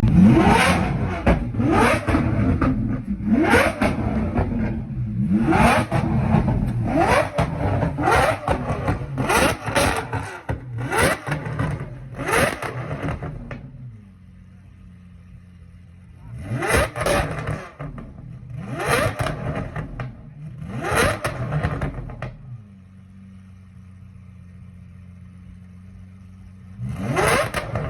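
Lamborghini Aventador SVJ's V12 being revved in short, sharp throttle blips, each rev climbing quickly and falling back, about one a second for roughly the first half. It then settles to a steady idle, with three more blips in the middle and one last one near the end.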